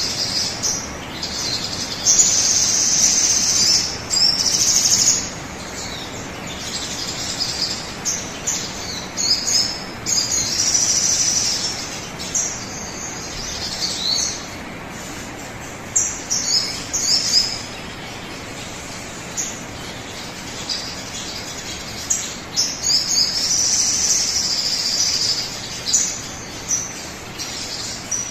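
Sogon bird song played as a lure (pancingan) to prompt a kept bird to sing: high-pitched chirping phrases that come in repeated bursts with short pauses, over a steady background hiss.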